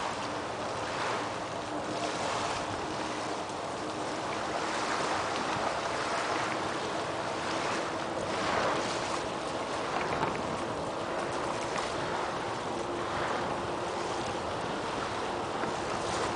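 Steady rushing wind noise over the microphone of a moving bicycle ride, swelling and easing, with a faint steady hum underneath.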